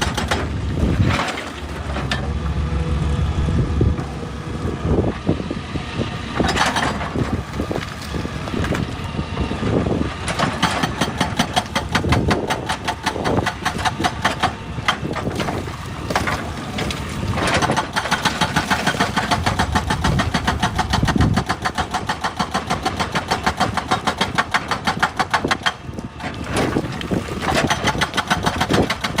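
Excavator's diesel engine running under load, with scattered sharp knocks of the bucket and rock in the first half. It settles into a rapid, even pulsing later on.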